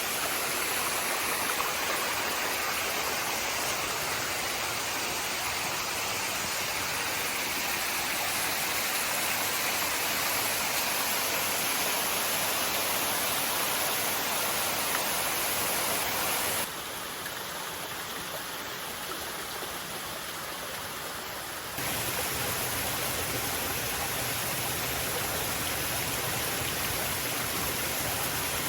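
Steady rush of falling and flowing water from a creek waterfall and its cascades, an even hiss. About halfway through it turns quieter for some five seconds, then comes back at the same level.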